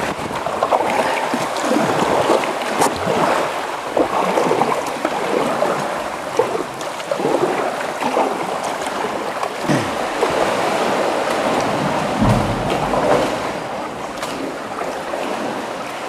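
Kayak paddle strokes splashing in calm sea water, with water lapping around the kayak.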